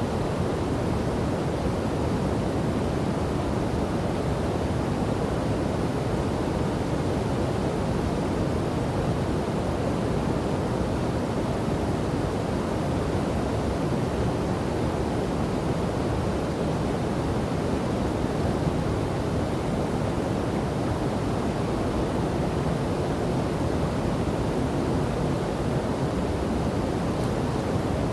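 Steady rushing of a river and waterfall, an even roar of falling and flowing water.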